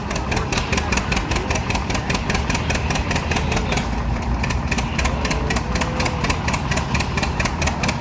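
Tractor engine running at a slow, steady speed, each firing stroke heard as an even, regular pulse.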